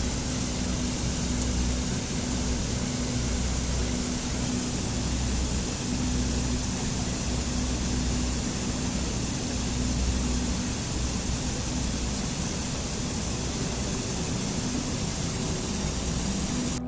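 Steady rushing water, an even hiss with a low rumble underneath, cutting off suddenly at the end.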